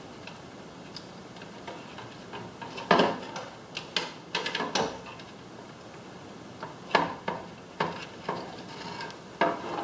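Scattered light clicks and knocks of small plastic and metal parts being handled, about a dozen irregular taps clustered in two bursts, during work on a garage door opener's circuit board and wiring.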